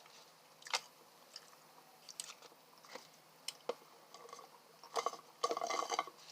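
Close-miked chewing of fast food, with wet mouth clicks and a few soft crunches, growing busier near the end.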